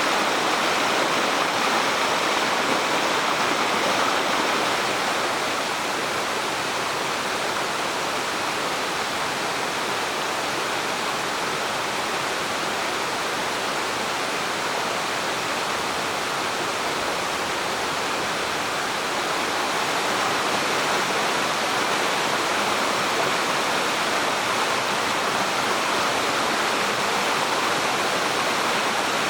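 Spring-fed mountain stream, its water rushing steadily.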